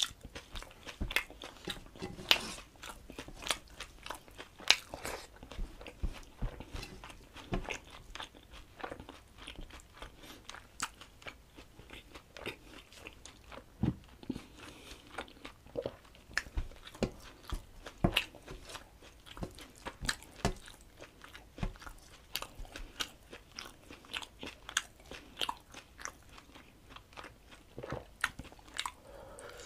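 Close-miked chewing of rice and chicken curry eaten by hand: irregular crunching and wet mouth clicks, a few a second, with no pauses.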